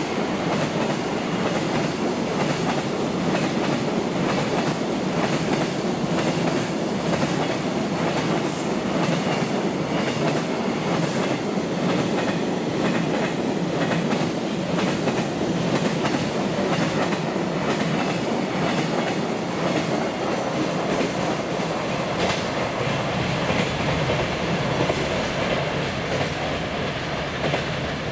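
Freight train's container wagons rolling past: a steady rumble of wheels on rail with regular clickety-clack over the rail joints. It grows a little quieter near the end as the last wagon passes.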